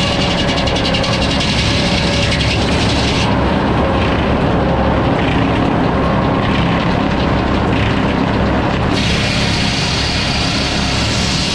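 Sawmill running and sawing hardwood logs, a loud steady machine noise. The higher hiss drops away for several seconds in the middle, then comes back.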